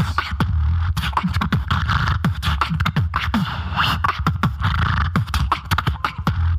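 Solo human beatboxing: fast vocal drum hits with kick, snare and hi-hat-like clicks over a sustained bass tone, with repeated falling bass sweeps.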